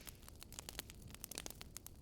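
Wood fire crackling, with irregular snaps and pops over a faint low rumble.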